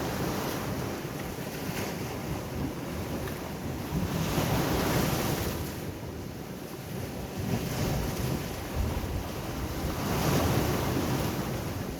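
Sea waves breaking and washing in, swelling twice, with wind buffeting the microphone.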